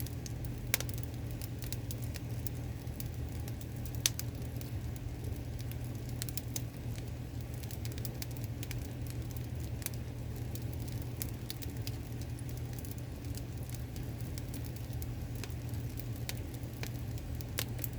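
Wood fire of crosswise-laid firewood logs burning, with scattered crackles and pops over a steady low rumble; two sharper pops come about a second in and about four seconds in.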